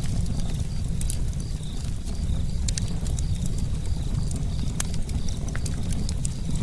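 Campfire burning: wood crackling and popping in sharp irregular clicks over a steady low rumble of the flames.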